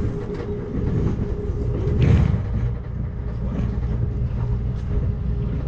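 Amtrak Cascades passenger train running, heard from on board: a steady rumble of wheels on rail with a thin constant hum, and a louder clatter about two seconds in.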